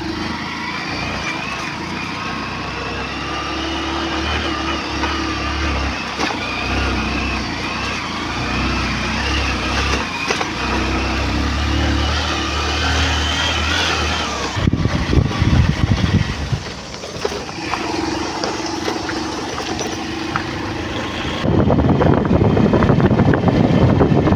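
A vehicle running while driving along, with a steady low engine rumble and a wavering whine. Heavier, rough noisy rumbling comes in about two thirds of the way through and again near the end.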